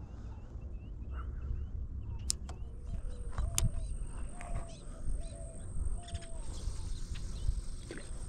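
Birds calling: a scatter of short high chirps, then a string of short lower calls in the middle. A steady thin high whine comes in after about two seconds, with a couple of sharp clicks and low wind rumble on the microphone.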